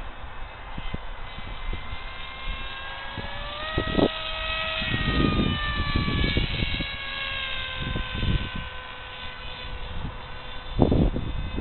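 Whine of an AXN RC plane's brushless electric motor and 6x5 propeller in flight. The pitch climbs a few seconds in and drops again about halfway through, as in a pass. Gusts of wind buffet the microphone several times.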